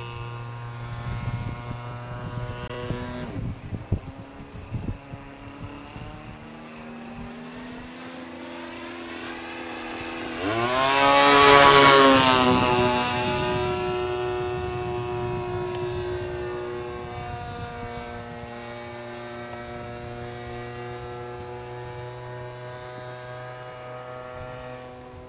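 Turnigy 30cc single-cylinder gas engine of a large RC Yak-54 model plane running in flight. The engine note swells to a close pass about halfway through, its pitch rising then falling as it goes by, then fades off again.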